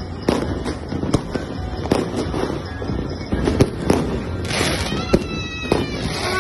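Fireworks going off: a rapid, irregular string of sharp bangs and crackles, with whistling in the last couple of seconds.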